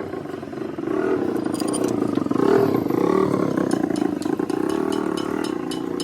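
An engine running, growing louder about a second in and easing off toward the end, with light sharp clicks over it.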